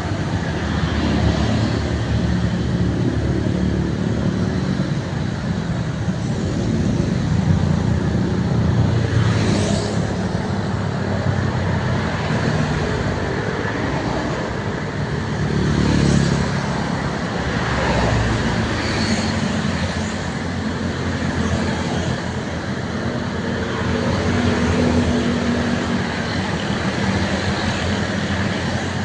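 Road traffic: trucks and cars driving past at speed, their engines droning steadily, with louder swells as individual vehicles pass several times.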